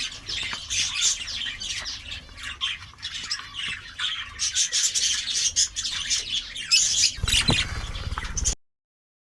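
A flock of caged budgerigars chattering and squawking, many birds at once in a dense, continuous din. A low rumble joins in about seven seconds in, and everything cuts off suddenly near the end.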